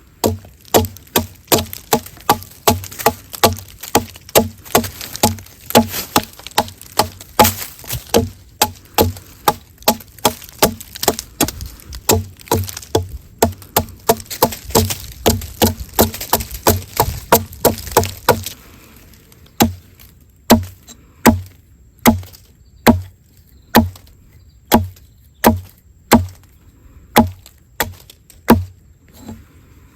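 Wood being chopped with repeated sharp strikes, about two or three a second, slowing to about one a second about two-thirds of the way through.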